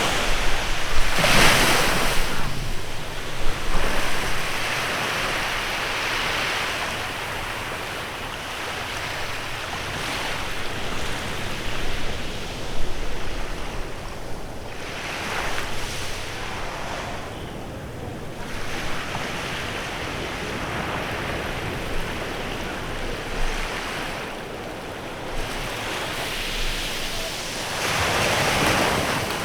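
Waves breaking and washing onto a beach in a bay. The surf swells louder three times: soon after the start, around the middle, and near the end.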